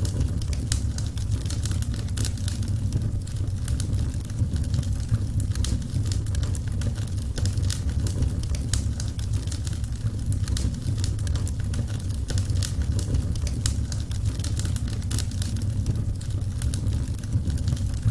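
Burning wood fire crackling, with frequent small sharp snaps and pops over a steady low rumble.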